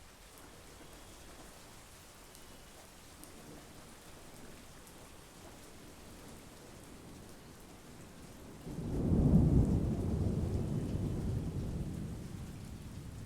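Steady monsoon rain falling. About two-thirds of the way in a low thunder rumble swells suddenly, peaks, then rolls away slowly toward the end.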